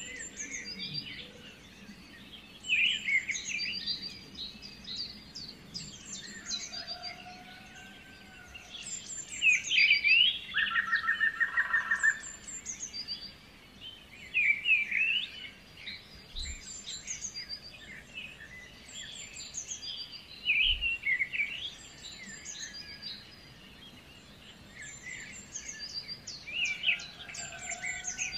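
Several birds chirping and singing, with short sharp chirps and whistled notes coming in bursts every few seconds. A rapid trill of quickly repeated notes stands out about a third of the way in.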